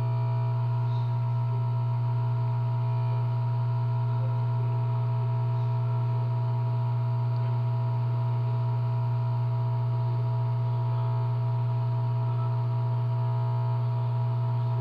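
Hot-air rework station's blower running steadily: a constant low hum with a couple of steady higher tones above it.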